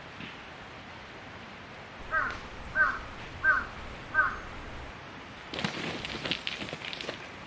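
A crow cawing four times, about two-thirds of a second apart. Near the end comes a burst of rustling and clicking.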